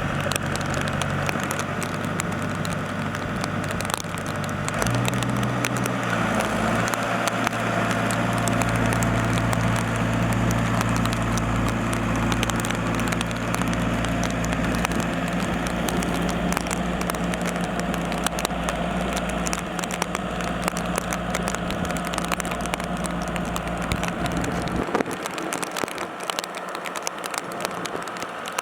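Farm machine's diesel engine running steadily, its pitch stepping up about five seconds in as it speeds up. Near the end the engine drone drops away, leaving a crackling noise.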